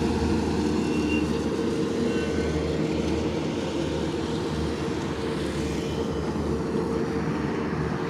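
Lawn mower engine running steadily, a constant drone.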